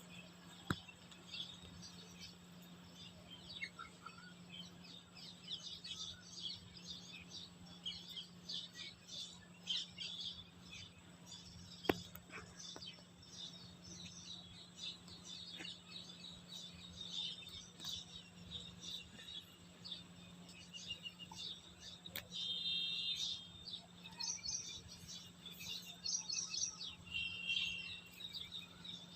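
Birds chirping, with many short high chirps coming thick and fast over a steady low hum, and a single sharp click about twelve seconds in.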